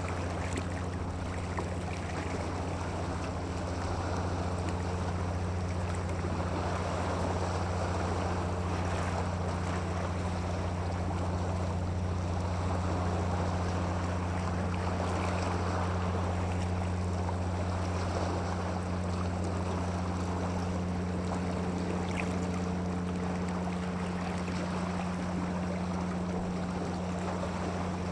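Flowing water, its rush swelling and easing every few seconds, over a low steady hum.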